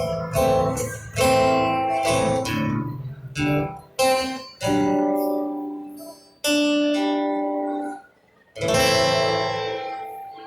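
Acoustic guitar strumming chords, each one ringing out. Toward the end the strums come singly with pauses between them, like the closing chords of a song, and the last chord rings out.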